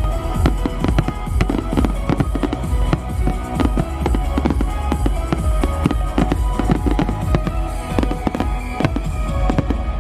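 Fireworks display in full flow: rapid, overlapping bangs and crackles of bursting shells over the show's loud soundtrack music.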